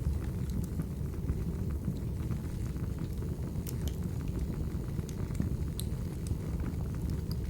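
Wood fire burning in a fireplace: a steady low rumble of the flames with scattered sharp crackles and pops of the firewood.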